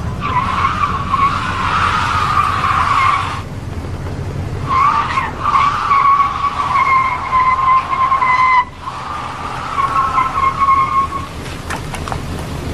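Car tyres squealing as a car skids, in three long stretches of a few seconds each with short breaks between them.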